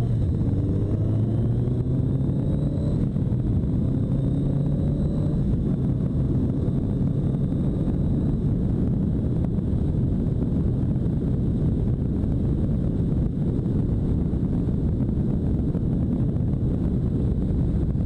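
1985 Honda Nighthawk 650's inline-four engine running on the move, its pitch rising slightly as it pulls over the first few seconds, then mostly buried under a steady rush of wind noise.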